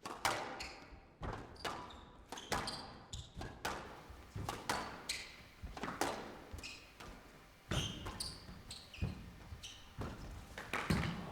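Squash rally: the ball cracks off rackets and the court walls about once a second at uneven intervals, with short high squeaks of court shoes on the floor in between.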